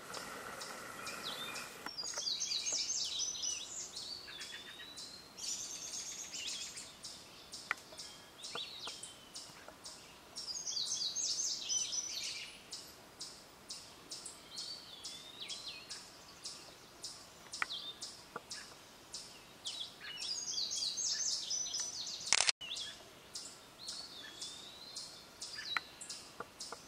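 Songbirds singing: one bird repeats a short song of quick high notes followed by slurred whistles every few seconds, with scattered chirps between. A single sharp click comes late on.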